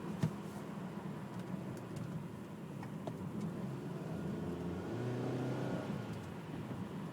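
A 2011 Hyundai Sonata's four-cylinder engine heard from inside the cabin, droning steadily while driving, with its pitch rising about five seconds in as it accelerates. A single sharp click comes just after the start.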